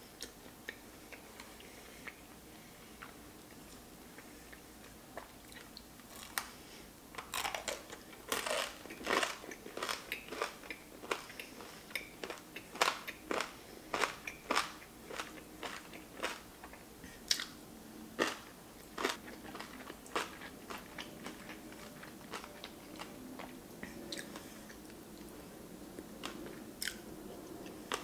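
Close-miked chewing of a mouthful of spicy raw hamachi sashimi with kimchi and crispy rice: soft chewing at first, then a dense run of sharp crunches from about seven seconds in that thins out by about twenty seconds, followed by softer chewing.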